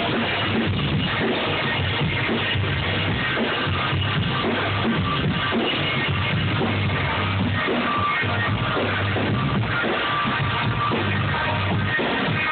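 Live band music with a heavy electric bass line, playing continuously and loud. The recording is dull, with no top end.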